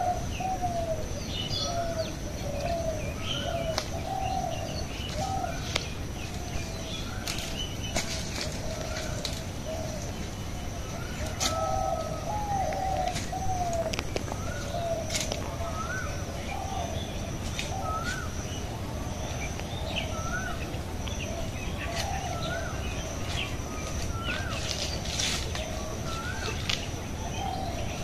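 Birds calling: a low, wavering call repeats over and over, with a short rising note about once a second above it. A steady high whine and scattered sharp clicks run underneath.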